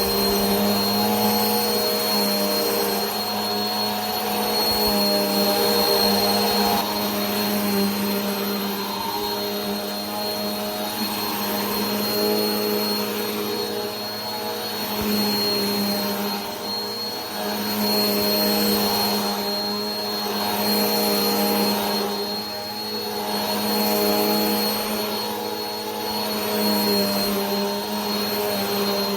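Vacuum cleaner running continuously: a steady motor whine with a high thin tone over a rushing hiss, the loudness swelling and easing slightly every few seconds.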